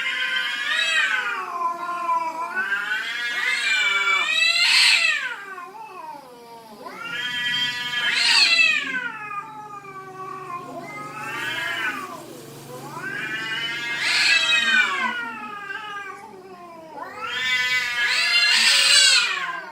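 Domestic cats caterwauling: long drawn-out yowls, about six in a row, each a few seconds long and wavering up and down in pitch.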